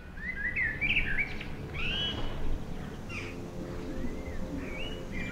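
Small songbirds chirping: a quick run of short rising and falling notes in the first second, then single calls every second or so.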